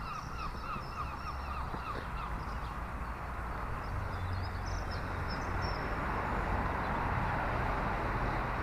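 A bird calling in a fast repeated series of harsh notes, about five a second, fading out about two seconds in, with small birds chirping faintly against a steady outdoor background hiss.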